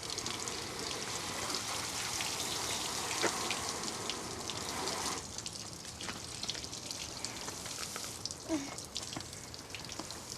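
Water from the car wash splashing and pattering in many small drips, over a steady hiss that eases about halfway through.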